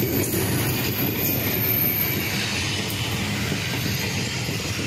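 Passenger express train running past on the track: a steady rumble of wheels on the rails.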